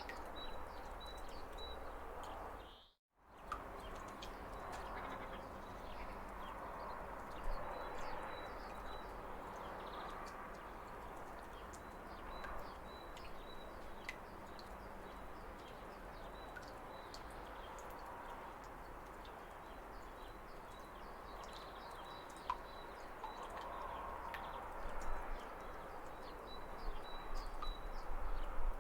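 Steady rush of a waterfall with small birds chirping, short high calls repeated throughout. About three seconds in, the sound dips to silence for a moment and comes back.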